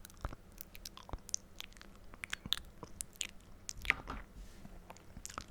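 Close-miked ASMR mouth sounds: irregular wet clicks and smacks of the lips and tongue, one sharper click about four seconds in.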